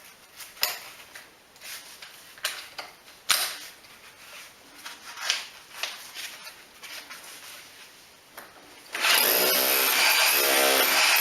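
Scattered knocks and clicks of tools being handled, then about nine seconds in an electric power tool starts up and runs steadily with a high whine.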